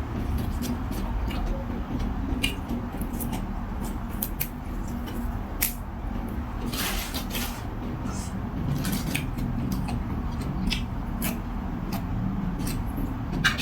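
Eating noodle soup: utensils clicking against a bowl, with chewing and a longer slurp-like sound about seven seconds in, over a steady low background hum.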